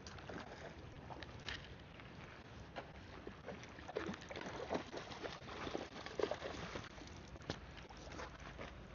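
Flowing river water with irregular small splashes and knocks while a hooked trout is fought toward the bank.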